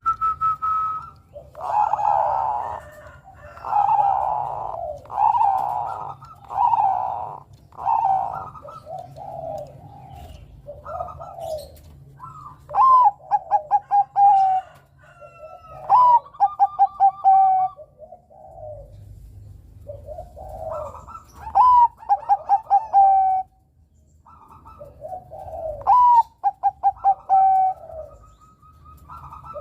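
Male Bangkok-strain zebra dove (perkutut) singing its cooing song. The first few seconds hold a steady run of soft, broad coos. After that, repeated phrases each open with a rising note and break into a quick run of short, clipped coos, four times over.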